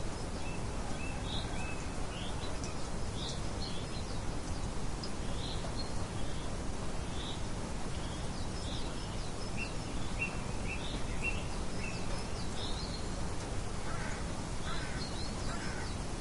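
Steady wind noise with small birds chirping, short high calls coming every second or so throughout.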